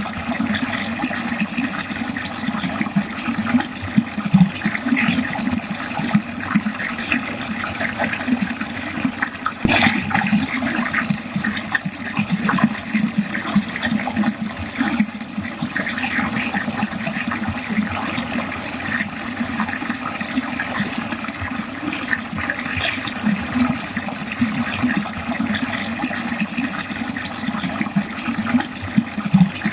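Water pouring steadily into a drain, a continuous churning, gurgling flow, with one sharper splash about ten seconds in.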